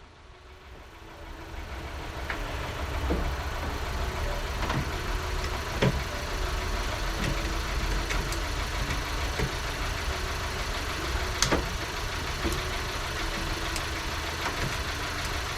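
A car engine idling steadily, with scattered light clicks and knocks over it; the sound builds up over the first couple of seconds.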